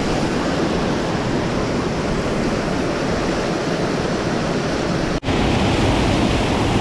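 Steady rushing of a tall waterfall, about 80 to 100 feet high, falling water heard close by. It breaks off for an instant about five seconds in, then comes back a little louder and deeper.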